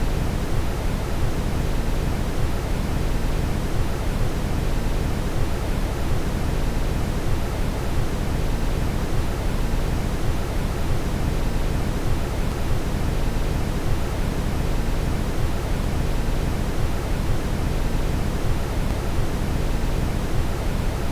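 Steady brown noise: a constant hiss weighted heavily toward the low end, unchanging throughout.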